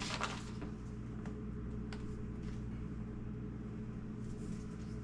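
Steady low hum with a brief rustle at the start and a few faint light clicks, as items are handled.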